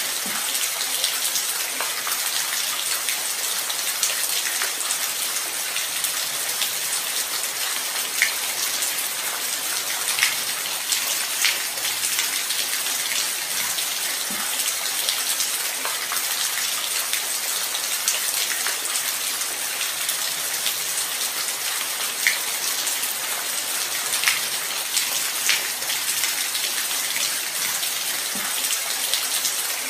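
Steady light rain: an even hiss of falling drops, with scattered louder single drop ticks standing out now and then.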